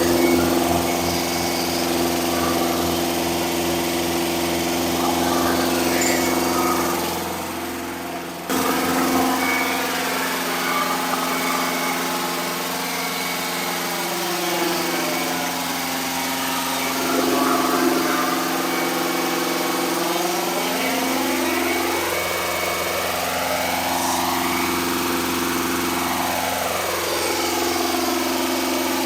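Engine with a newly installed camshaft running at a steady speed during its cam break-in. There is a brief drop in loudness about seven seconds in that ends abruptly.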